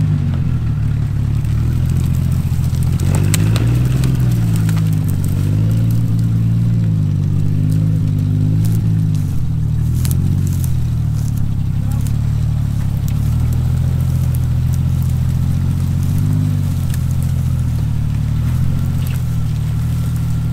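Jeep Wrangler TJ engine running at low revs as the Jeep creeps forward, its note rising and falling slightly. A few sharp clicks about 3 and 10 seconds in.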